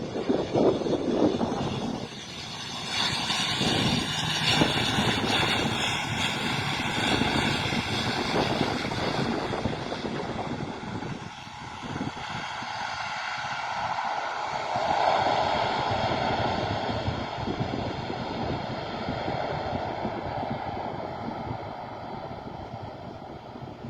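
Airliner engines running: a steady roar with several whining tones running through it, swelling louder a few seconds in and again around the middle.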